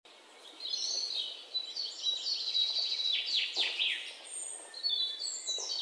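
Birds chirping and calling in the trees: many short high chirps and quick downward-sweeping calls, fading in over the first second.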